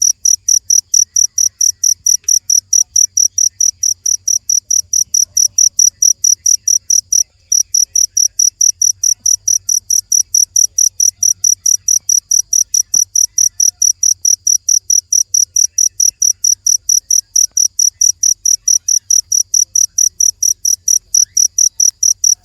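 Cricket chirping in a steady, even rhythm of about four high-pitched chirps a second, with a brief break about seven seconds in.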